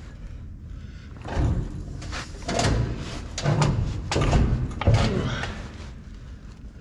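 Heavy metal clunks and scraping as a truck transmission is worked loose and pulled out from under the truck: five or six knocks about a second apart, each with a low thud.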